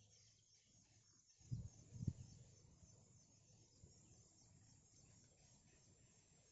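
Faint outdoor background with a steady high hiss, broken about one and a half and two seconds in by two short, dull low thumps.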